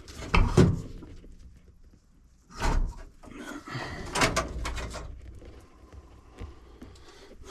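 A few sharp knocks and clunks of things being handled, the loudest about half a second in, more near three and four seconds in, with lighter clatter between.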